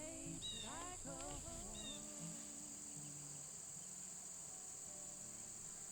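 Faint, steady chirring of crickets or similar insects. Faint music with gliding pitched notes plays over it in the first two seconds.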